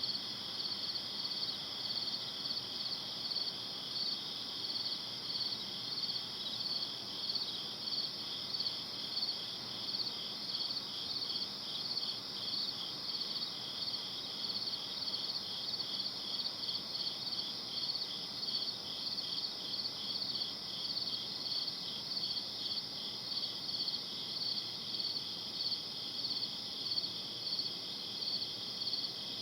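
Night chorus of crickets: a continuous high trill with evenly repeating chirps layered over it, steady throughout.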